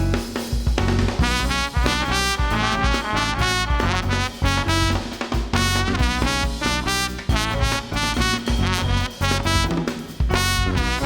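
Jazz quartet playing live: a trumpet plays a quick line of many short notes over piano, double bass and drum kit.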